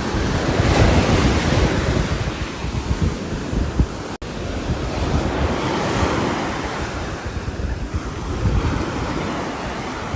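Rain falling on a roof: a dense rushing hiss with a low rumble, slowly swelling and easing, broken by a momentary dropout a little over four seconds in.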